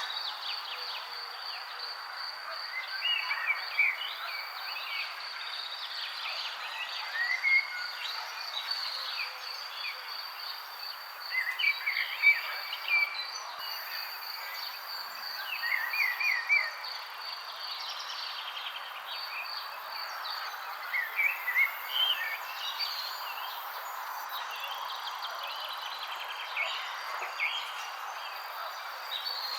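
Birds chirping in short bursts every few seconds over a steady, rapidly pulsing high insect trill, with an even background hiss.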